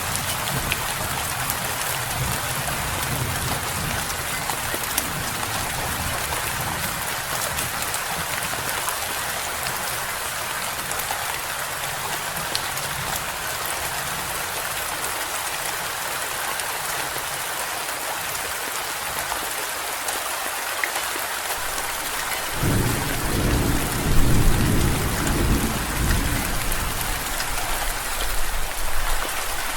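Steady heavy rain falling, with a low rumble of thunder rolling in about three-quarters of the way through and running on to the end.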